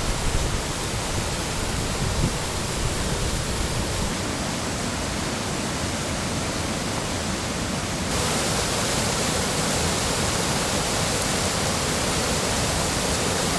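Steady rush of a mountain waterfall or stream. About eight seconds in it changes abruptly to a louder, hissier rush.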